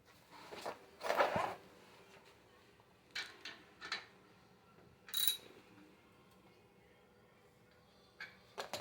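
A few short scrapes and knocks, with one brief metallic clink about five seconds in, as the chrome exhaust tip extension is twisted and slid into position on the tailpipe.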